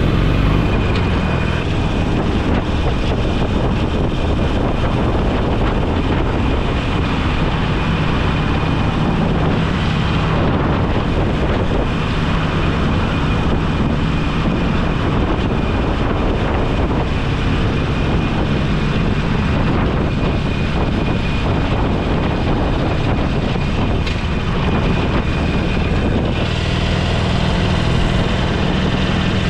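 Motorcycle running at steady road speed: a low engine drone under steady wind and road noise on the microphone.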